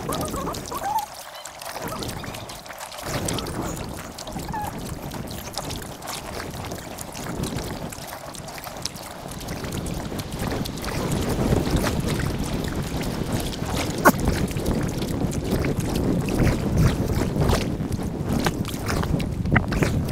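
Kayak paddling on a river, sped up by time lapse: a busy wash of water noise and paddle splashes, with wind on the microphone.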